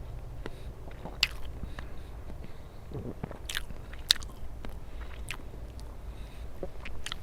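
A person biting and chewing food close to the microphone, with scattered sharp crunches and clicks, the loudest about four seconds in.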